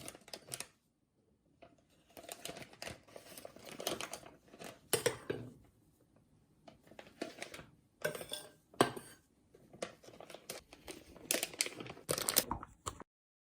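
Kitchen handling noises as whipped egg-white batter is spooned into a plastic piping bag: the bag crinkling, with utensils scraping and clicking against a bowl in short, irregular spells.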